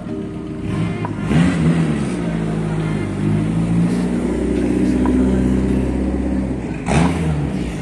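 A car engine running close by, its pitch rising and falling about a second and a half in and again near the end, held steady in between.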